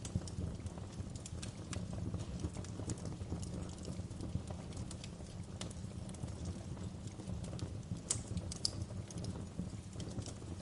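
Fire crackling in a fireplace: irregular sharp pops and snaps over a steady low rumble of the flames, with a couple of louder pops about eight seconds in.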